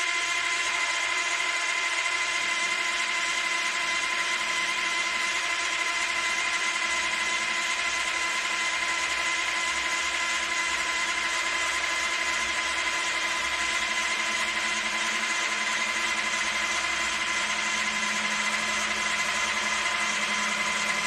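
Vintage milling machine running at a steady speed, its motor and spindle giving a constant whine.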